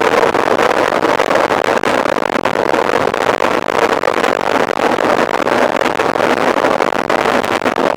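Steady rushing noise of a mountain bike being ridden at speed, heard from the bike: wind buffeting the microphone, with a dense rattle of small knocks from the tyres and bike over rough ground.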